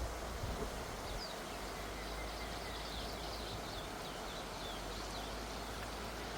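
A bird calling in a quick run of short, high chirps for a few seconds, over a steady outdoor hiss.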